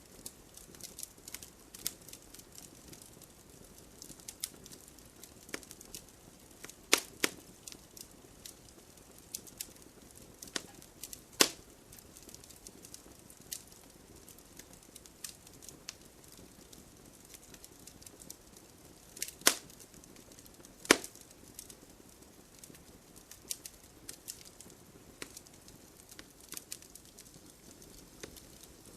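Wood campfire crackling: a steady scatter of small pops and ticks over a soft hiss of flame, with a handful of much louder snaps spread through.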